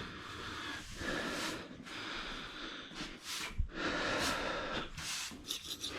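A person breathing hard in a run of noisy breaths, each under a second, as if straining at a stubborn job.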